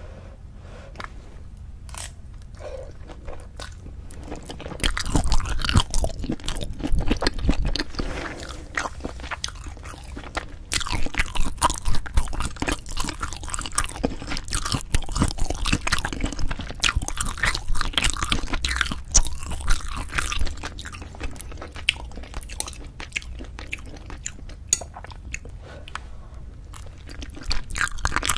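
Close-miked chewing and biting of braised spicy chicken with cheese, wet and crunchy mouth sounds. They are sparse for the first few seconds and come thick and steady from about five seconds in.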